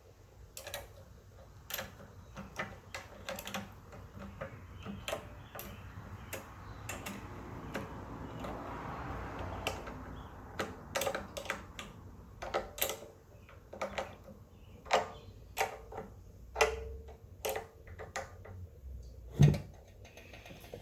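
Irregular sharp clicks and light knocks of parts and tools being handled on a small engine pump, with a stretch of soft rustling in the middle and a heavier knock near the end.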